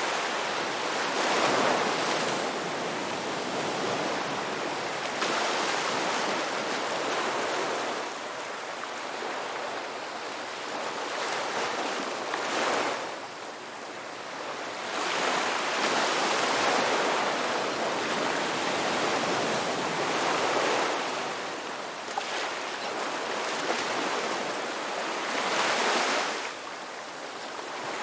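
Ocean waves breaking and washing ashore, the surf swelling and fading every few seconds.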